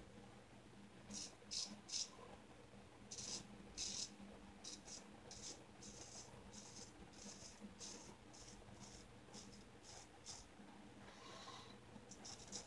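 Shavette razor with a Gillette Wilkinson Sword blade scraping through whiskers in short, faint strokes, a few a second, starting about a second in.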